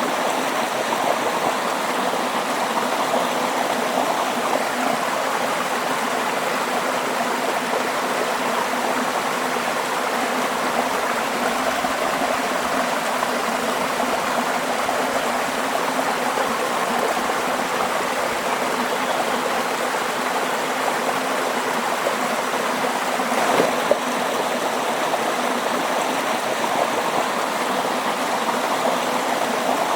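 Running water flowing steadily, a continuous, even rush like a stream.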